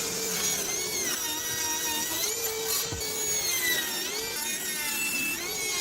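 A handheld power tool's motor running under load, its whine wavering up and down in pitch.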